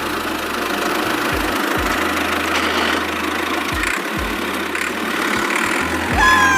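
An engine running steadily. Near the end, a short high squeaky tone starts.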